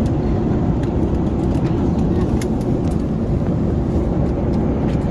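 Steady, loud cabin noise of an Airbus A380 in flight: a low rush of airflow and engine drone, with a few faint clicks.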